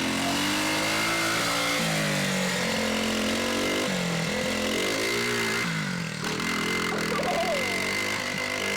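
Dirt bike engine revving up and down as it is ridden, its pitch rising and falling several times.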